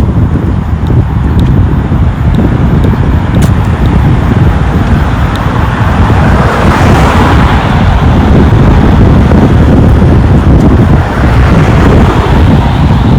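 A road vehicle passing close by, its tyre and road noise swelling over several seconds and then easing off, over heavy wind buffeting on the microphone.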